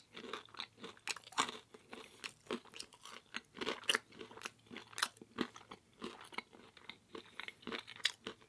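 Close-miked chewing of store-bought vegan pizza: a steady run of crisp crunches and wet mouth clicks, several a second.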